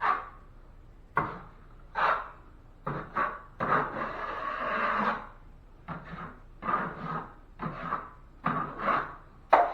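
Steel drywall knife scraping wet joint compound across a ceiling patch in a series of short strokes, about one a second, with one longer drawn stroke near the middle.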